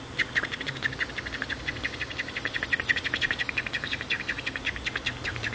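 Monk parakeet (quaker parrot) making a rapid, even run of short clicking chirps, many per second.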